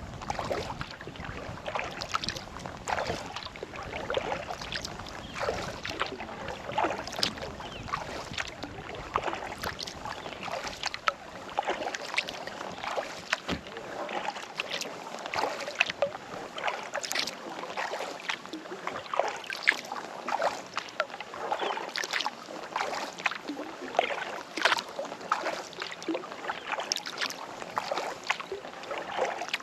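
Kayak paddle dipping into lake water and splashing, stroke after stroke, with short irregular splashes and drips from the blades. A low wind rumble on the microphone fades out partway through.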